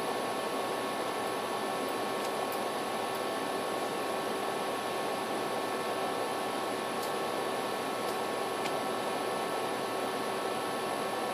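Steady hiss with a faint constant hum and a few faint ticks, the even noise of a recording with no sound event in it.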